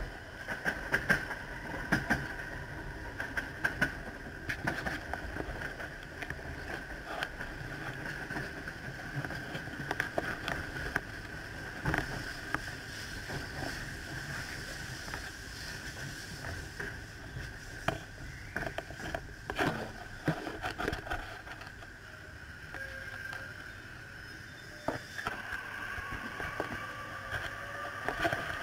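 Electric passenger train running noise heard from inside the carriage: a steady rumble with a high whine, broken by irregular clicks and clunks of the wheels crossing points and rail joints. Near the end, extra whining tones come in as another train runs alongside.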